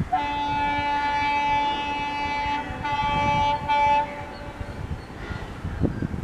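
Diesel locomotive's multi-note air horn sounding one long blast, then a shorter one and a brief one about four seconds in, followed by the low rumble of the train running.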